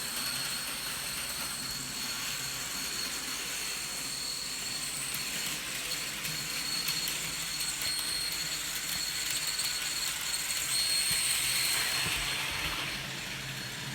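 HO scale model train locomotives running along the track: a steady electric motor whine with the hiss of wheels on rail, getting a little louder towards the middle and easing near the end.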